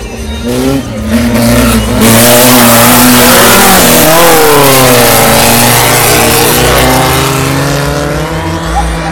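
Volkswagen Beetle race car's air-cooled flat-four engine running hard at high revs as the car races close past. It gets loud about two seconds in, its pitch swings up and down near the middle, and it fades toward the end.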